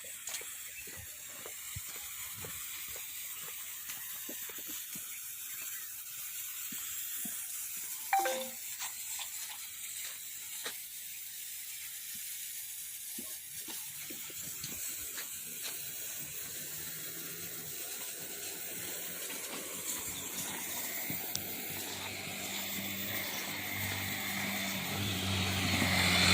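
Outdoor ambience: a steady high hiss with scattered faint clicks and a brief sound falling in pitch about eight seconds in. A low motor-vehicle engine hum builds through the second half, swelling loudest near the end as the vehicle approaches.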